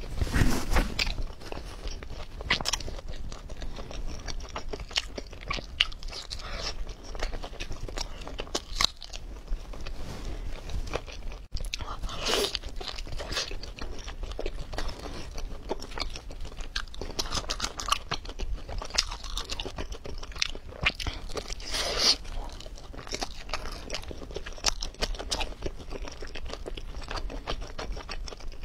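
Close-miked eating of braised octopus: irregular biting and chewing mouth sounds with many short wet clicks and smacks. The loudest bite comes about half a second in.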